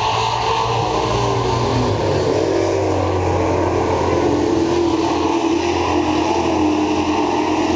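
Several racing super trucks' engines running hard around a dirt oval. Their pitches rise and fall as they power through the turns and down the straights.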